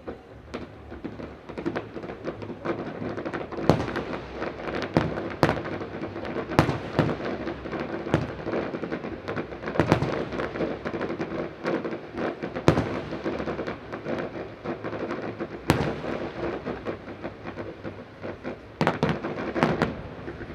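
Aerial fireworks display: many shells bursting in rapid succession over continuous crackling, with a louder bang every few seconds and a dense cluster of bangs near the end.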